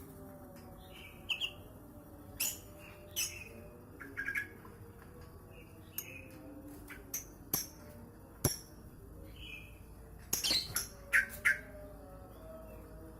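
Yellow-vented bulbul calling in short, sharp chirps, scattered irregularly with a louder flurry near the end.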